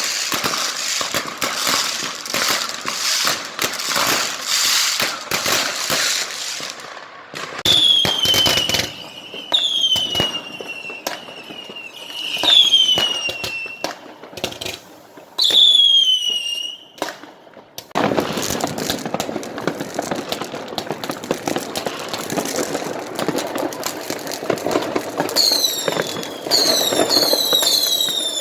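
Fireworks going off: a dense rapid crackle of firecrackers, then a series of whistling fireworks, each a falling whistle about a second long. About eighteen seconds in, a steady hiss and crackle starts suddenly, with several quick, short falling whistles near the end.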